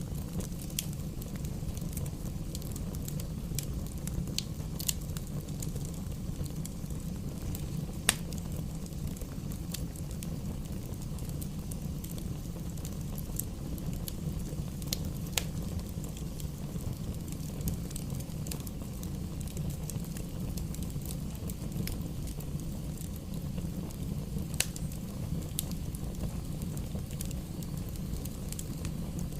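Bonfire burning: a steady low rush with scattered sharp crackles and pops of burning wood, one louder pop about eight seconds in.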